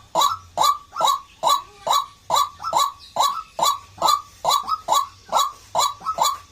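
White-breasted waterhen calling, a rapid run of harsh 'ruak' notes, about two to three a second, each a short note falling in pitch, some in quick pairs.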